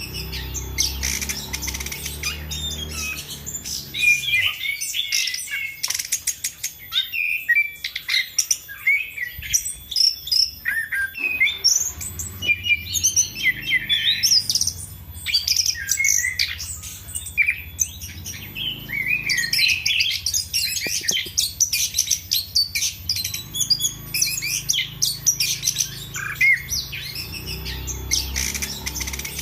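Chestnut-capped thrush (anis kembang) in full song, pouring out a rapid, varied stream of chirps and whistles with hardly a pause. A low hum runs underneath.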